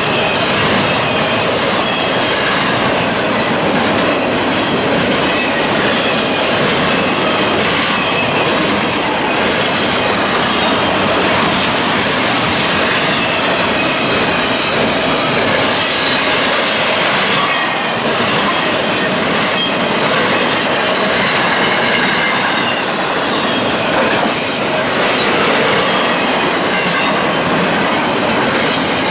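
A freight train's cars rolling past, a loud, steady rumble of steel wheels on rail with a faint high wheel squeal running through it.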